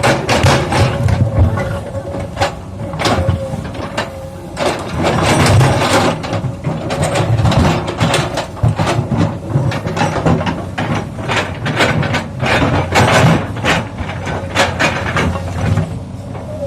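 Komatsu PC200 excavator's diesel engine running steadily under load, with repeated sharp knocks and clatter of stone boulders against the steel bucket and each other throughout.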